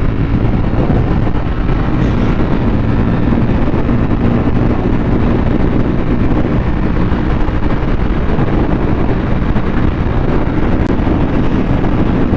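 Motorcycle engine running at a steady cruise under heavy wind rush on the rider's microphone.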